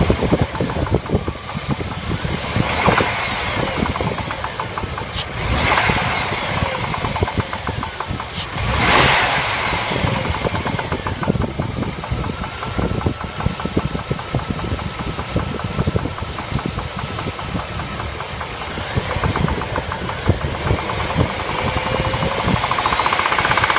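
L35 engine running with a rapid knocking, revved briefly three times in the first ten seconds and then held at a steady speed, rising again near the end. The knock is the engine fault the clip is about.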